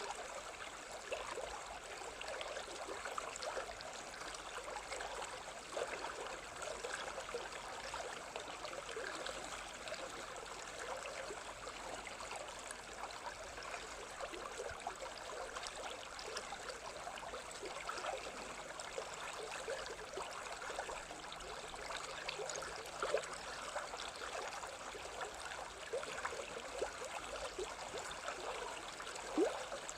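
Running water of a small stream, flowing and babbling steadily, with a couple of slightly louder splashes near the end.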